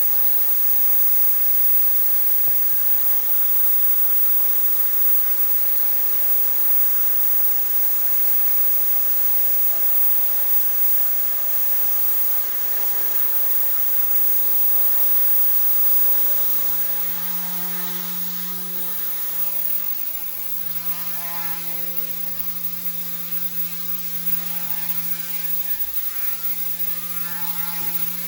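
OMP M1 small electric RC helicopter in flight, its motor and rotors giving a steady buzzing hum. About sixteen seconds in, the pitch glides up as the head speed rises, then holds steady at the higher speed.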